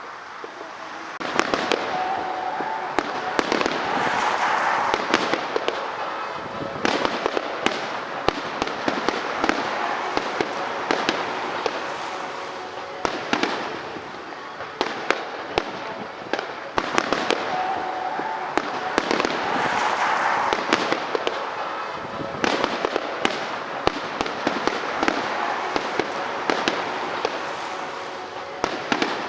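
Aerial fireworks going off: dense, rapid bangs and crackling over a steady rushing hiss, swelling and easing in waves every few seconds.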